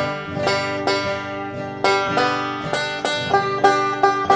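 A banjo picked one note at a time, each note struck sharply and left to ring, the plucks coming closer together and more evenly near the end.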